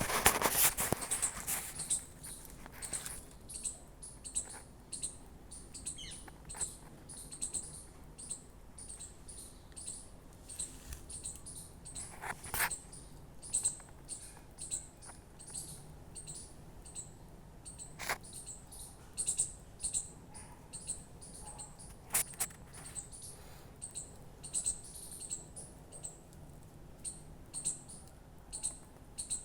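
A small animal's high-pitched chirps, repeating about twice a second, with a louder rustle in the first second and a few sharp knocks later on.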